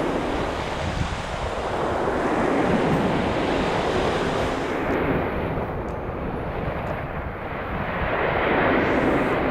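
Ocean surf breaking and washing in surges, loudest at the start and again near the end, with wind rumbling on the microphone.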